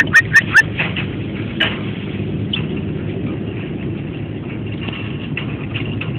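Cockatiel giving four quick, short chirps in a row, then a few softer scattered chirps over a steady low background rumble.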